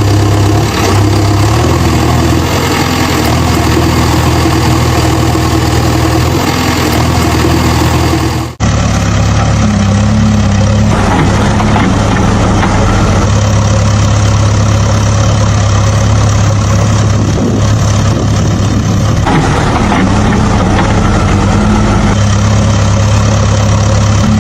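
Heavy machine engine idling steadily. About a third of the way in, it cuts out for an instant and resumes with a slightly different tone.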